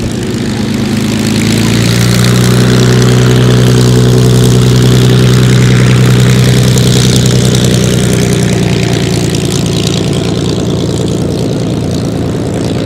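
Piston engine of a single-engined warbird fighter running, growing loud to a peak about five seconds in and then easing off as it goes past, with a slight drop in pitch about a second in.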